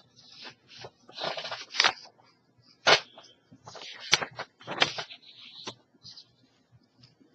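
Paper pages being handled: rustling and sliding sheets as another page of a printed report is brought into place, with a few sharp taps and clicks.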